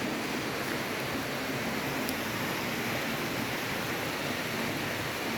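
Steady rushing of flowing water, an even noise with no distinct events.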